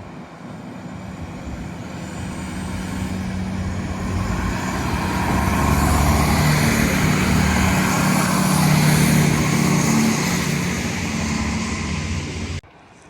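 A train passing through the station, its engine and wheel noise building up over several seconds into a loud, steady run with a low drone, then cutting off suddenly near the end.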